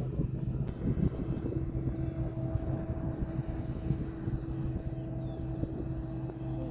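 Combine harvester engine running with a steady drone over a low rumble.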